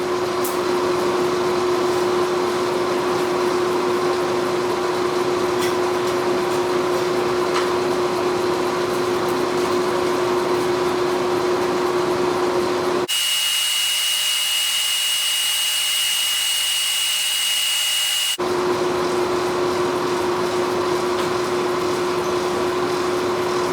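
A forge running for heat treating a knife blade: a steady mechanical hum with a constant low tone. About halfway through it switches abruptly for about five seconds to a thin hiss with a high steady whistle, then the hum returns.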